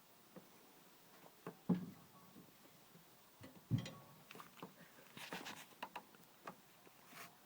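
Irregular knocks and light clinks of a forged iron fireplace tool set being handled, with two heavier thuds about two and four seconds in, the second followed by a brief faint ring.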